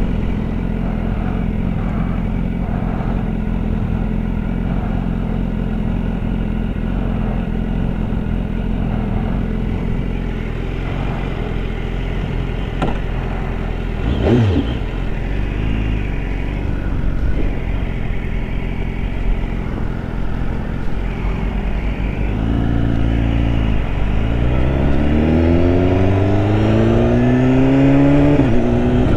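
BMW S1000RR's inline-four engine running steadily under wind noise, then from about three quarters of the way through accelerating, its pitch climbing, dropping briefly at a gear change and climbing again. A short sweeping sound passes about halfway through.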